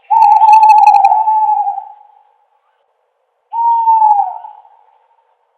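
Owl hooting: two long, steady hoots, the first about two seconds long, the second starting about three and a half seconds in and dropping in pitch at its end.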